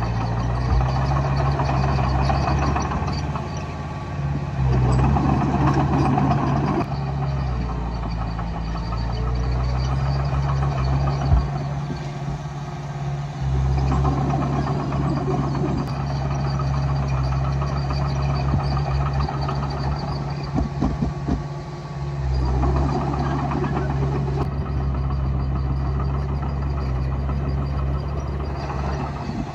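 Diesel engine of a Komatsu D20A bulldozer running steadily, swelling louder and rougher several times as it pushes soil.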